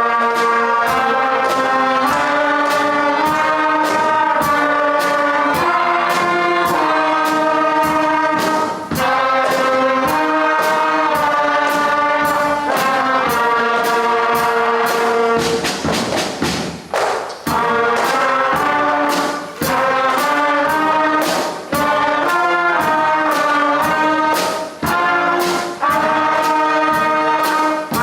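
Beginner school concert band of wind and brass players playing a piece in sustained, stepwise notes over a steady percussion beat, with short breaks between phrases.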